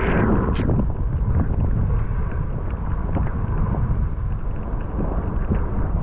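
Wind buffeting the microphone in a steady low rumble while snowboard edges scrape and carve over snow, with a few sharper strokes near the start.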